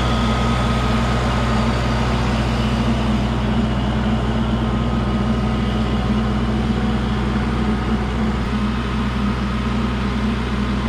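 A large engine running steadily at one speed, with a strong low drone.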